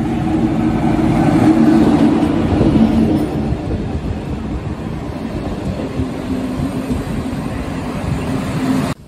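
MÁV InterCity passenger train, hauled by a class 431 electric locomotive, rolling into the station along the platform, its coaches passing close by with a steady rumble of wheels on rail. The rumble is loudest a second or two in and eases as the coaches go by, then cuts off abruptly near the end.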